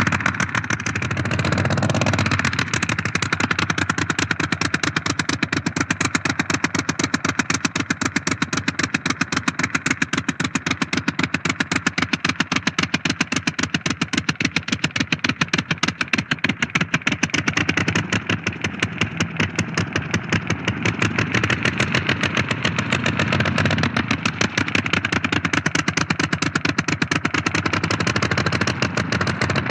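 Blériot single-propeller monoplane's engine running steadily as the aircraft taxis around, a rapid even train of firing pulses that dips in level briefly a couple of times in the second half.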